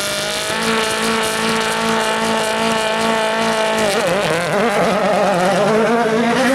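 Rally car engine held at high revs on a steady note, then from about four seconds in the revs rise and fall unevenly as the throttle is worked.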